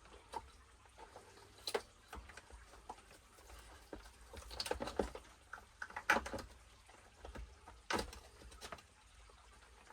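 Irregular scraping, rubbing and light clicking of small metal RC truck parts being cleaned of old residue by hand, with a sharper click or knock about eight seconds in.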